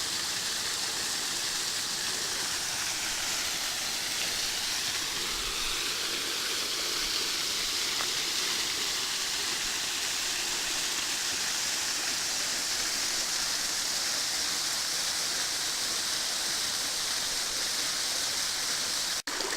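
Steady rush of water from a waterfall, a constant even hiss. It cuts out for an instant near the end.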